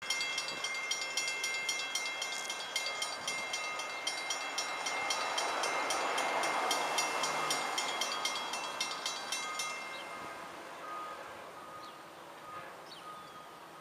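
Florida East Coast freight train rolling past, its steel wheels clicking in a rapid, regular rhythm over the rail joints, with a high, steady ringing whine over it. The sound fades away about ten seconds in.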